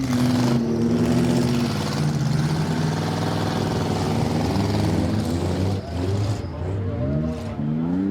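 Demolition derby cars' engines running and revving, several at once at different pitches, with a rise and fall in pitch near the end.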